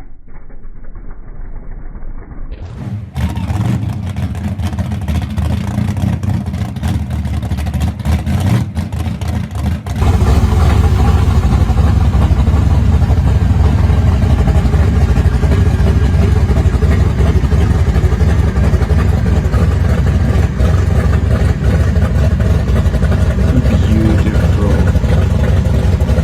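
Muscle car engine running, getting louder over the first seconds. About ten seconds in it jumps suddenly to a loud, steady, deep engine rumble close by.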